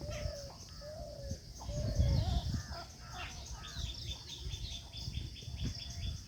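Birds calling in a garden: a short low arched call repeated about once a second, mixed with higher chirps and, in the second half, a fast run of ticks at about five a second. Under them run a steady high insect drone and an uneven low rumble.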